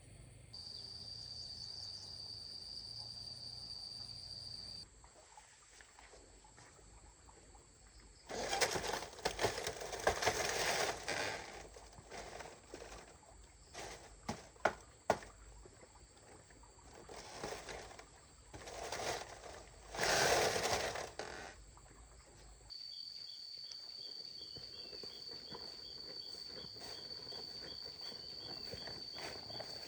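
A steady high-pitched insect buzz in the first few seconds and again over the last third. In between come several loud bursts of rustling noise, each one to three seconds long, with a few sharp clicks.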